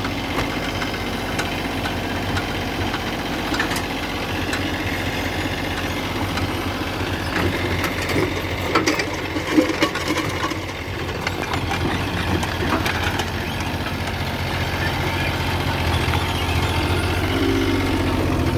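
Engine idling steadily, with a few sharp clanks around the middle and the engine a little louder near the end.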